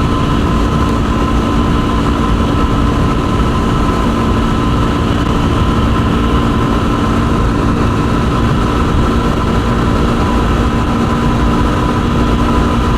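Yamaha WR250R's 250 cc single-cylinder four-stroke engine running at a steady cruising speed, a constant engine drone with no change in revs, over a heavy low rush of wind and road noise.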